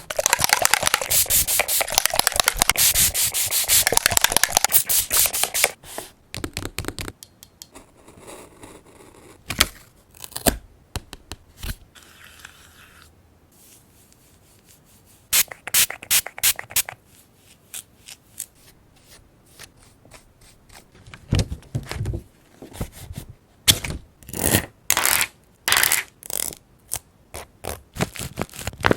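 Paper being rubbed hard with rapid scratchy strokes for about six seconds, as when a sticker or cut-out is pressed down onto a journal page. This is followed by scattered short crinkles and taps of paper being handled.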